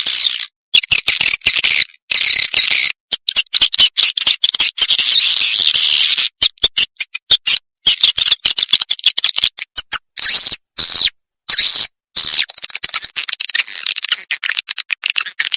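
Swiftlet lure recording: edible-nest swiftlets twittering in rapid high chirps and clicks, in bursts broken by short silent gaps.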